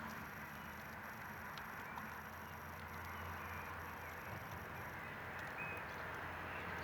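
Campfire burning with a steady hiss and a few faint crackling pops.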